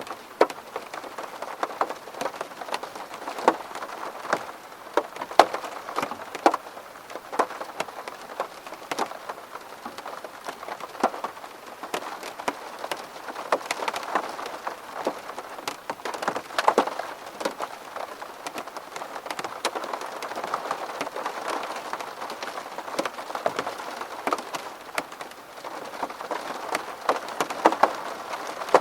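Rain falling on a window: a steady patter with frequent sharp individual drop hits.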